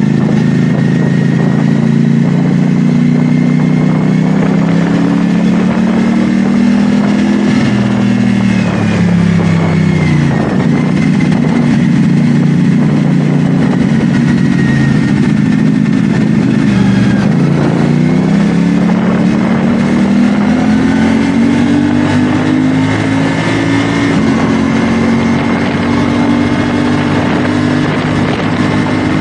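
CFMoto 450SR S parallel-twin engine running under way; the revs hold, drop sharply about ten seconds in and again around seventeen seconds, then climb gradually and hold steady.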